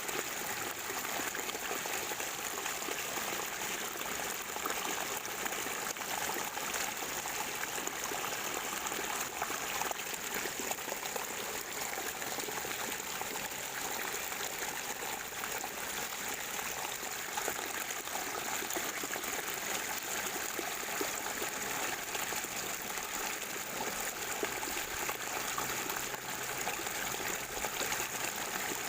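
Natural spring water gurgling and trickling in a steady, unbroken flow.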